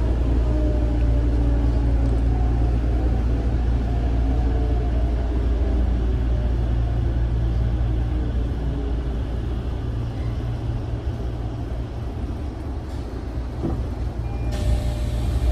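Inside a Tokyo Metro 05 series electric train braking into a station: the traction motors' whine falls in pitch over the low rumble of the running gear, and the rumble eases as the train slows to a stop. Near the end a sudden hiss of air is released.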